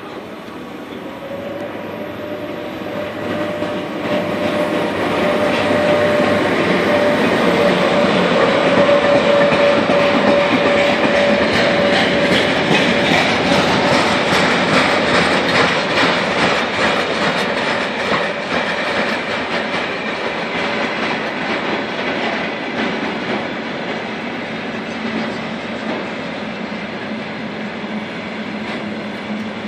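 Freight train hauled by two Sr1 electric locomotives rolling past close by, a long string of tank wagons clattering and clacking over the rail joints as it pulls in to stop at a red signal. A steady whine sounds from about a second in until around the middle, and the rumble swells to its loudest about a third of the way through, then slowly eases.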